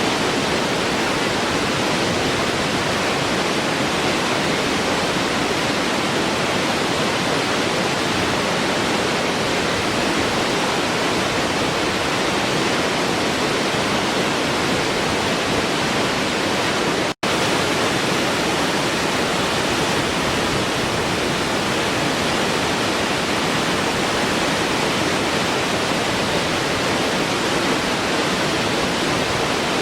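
Waterfall rushing in a steady, even roar of falling water, with one instant near the middle where the sound cuts out completely and comes straight back.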